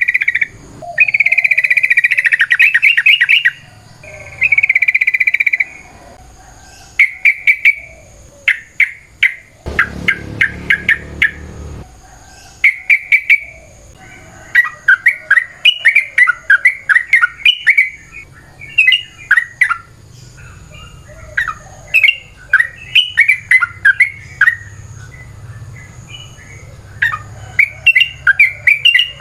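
Yellow-vented bulbul (trucukan) singing: a couple of long, rapid rolling phrases near the start, then a busy run of short bubbling notes repeated one after another.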